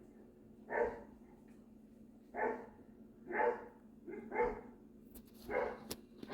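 A dog barking five times in single barks spaced about a second apart, with a sharp click near the end.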